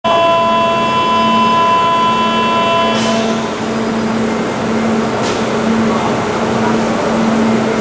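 Railway station platform sound: a steady electronic tone lasting about three seconds, cut off with a click, then a continuous rushing noise with a low hum, as of a train running at the platform.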